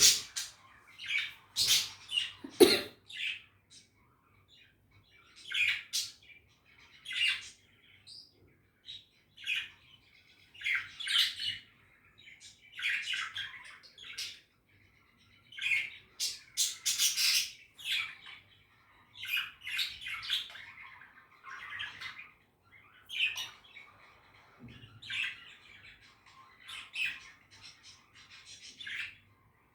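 Budgerigar chirping in short bursts, with brief pauses between them.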